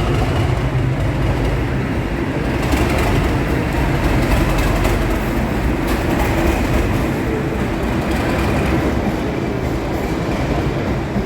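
Train running on the line: a loud, steady rumble of wheels on rail.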